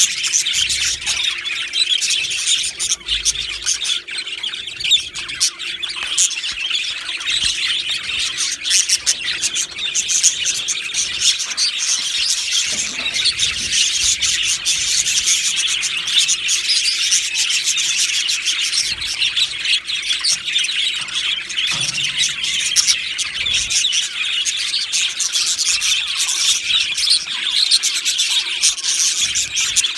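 A colony of budgerigars chattering and chirping continuously, many birds calling over one another.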